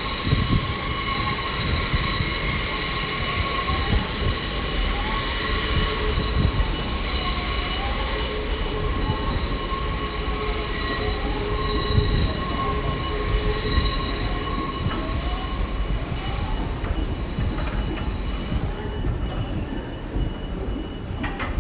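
Class 360 electric multiple unit pulling into a terminus platform, its wheels squealing in several steady high-pitched tones over a low rumble, with a wavering tone underneath. The squeal fades over the last few seconds as the train slows.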